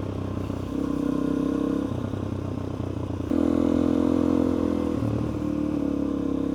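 Suzuki DR-Z400E's single-cylinder four-stroke engine running under way, its note stepping up and down as the throttle opens and eases, louder and higher for a couple of seconds from about a third of the way in.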